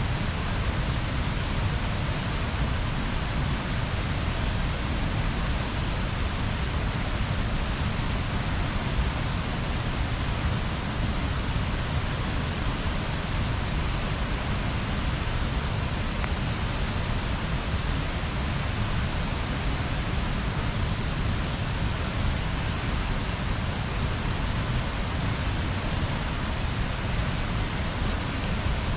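Bonfire burning with a steady rushing noise and a deep, fluttering rumble, with hardly any crackle or pop.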